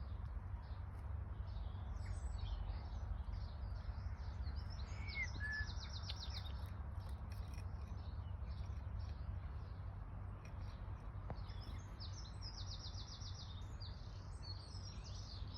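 Several garden songbirds singing and chirping, with two fast trilled phrases of rapidly repeated notes, over a steady low rumble.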